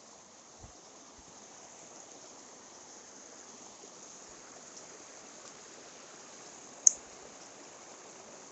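Mountain stream water running steadily, with one short, sharp high-pitched click about seven seconds in.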